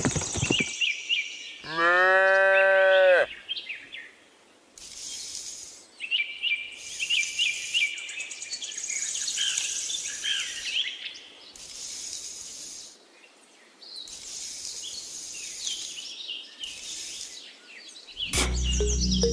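Cow mooing: one long moo about two seconds in, followed by high chirping birdsong.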